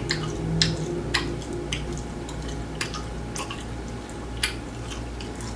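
Close-up chewing of grilled chicken: a string of irregular wet mouth clicks and smacks.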